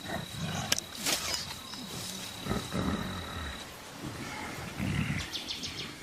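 Mountain gorillas giving a few short, low grunts a second or two apart, over a background haze with a click near the start. A thin steady high tone runs underneath and stops a little past halfway.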